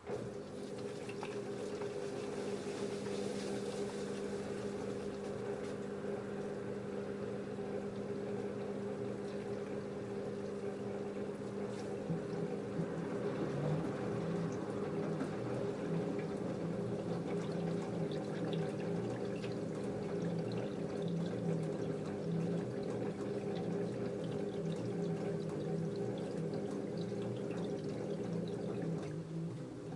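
LG F10A8HDS5 front-loading washing machine's water inlet valve opening, with water running into the machine and a steady hum under it. It starts suddenly and stops near the end.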